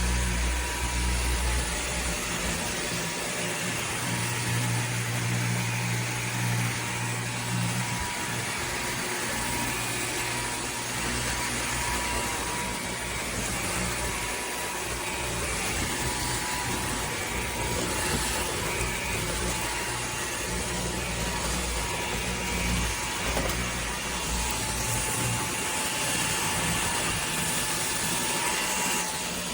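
Cordless stick vacuum cleaner running steadily, a continuous motor whoosh with a low hum underneath.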